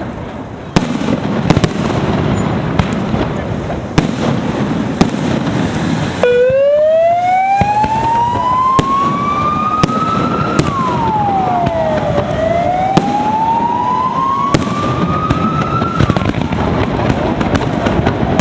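Aerial fireworks shells bursting in a rapid, irregular series of sharp bangs. From about six seconds in, a siren wails over them: it rises slowly in pitch, drops, then rises again.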